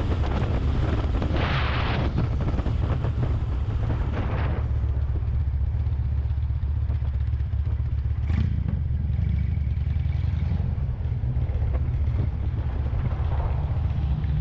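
Harley-Davidson Road Glide's V-twin engine running steadily while riding, heard with a rush of wind noise that fades after about four seconds.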